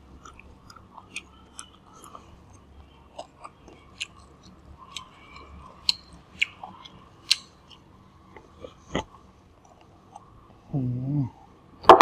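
Close-miked chewing with a scatter of small sharp clicks and crisp crackles. Near the end there is a brief low voice-like hum, then one loud sharp crack.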